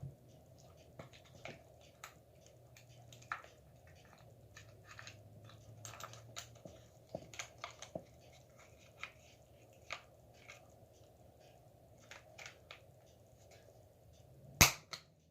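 Scattered light clicks and taps of metal pistol parts being handled and fitted together during reassembly, with one louder sharp clack near the end.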